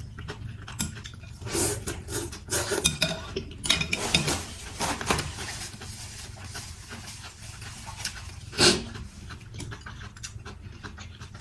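Close-up eating sounds: chewing and slurping of mì Quảng noodles, with chopsticks and a spoon clicking against a bowl. The loudest slurp or clatter comes about three-quarters of the way through.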